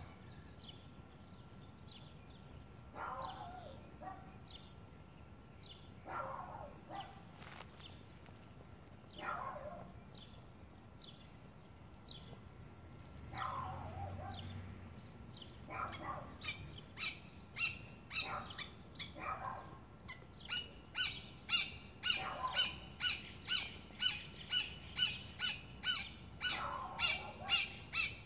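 Songbirds calling outdoors: single downward-sliding calls every few seconds, then from about two-thirds of the way in a rapid run of high, repeated chirps, about two a second.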